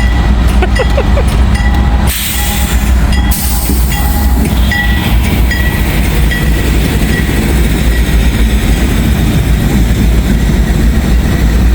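Freight train rolling past with a loud, steady low rumble. A short ding repeats a bit under twice a second, and a brief burst of hiss comes about two seconds in.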